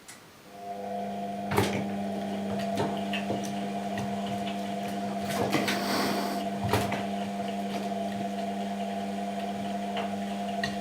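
Washing machine motor turning the drum during a wash cycle: a steady hum that starts about half a second in and stops right at the end, with a few sharp knocks, the loudest about a second and a half in.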